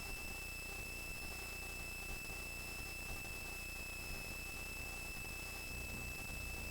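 Steady high-pitched whine over a low hum in a landed helicopter's cabin audio, unchanging throughout.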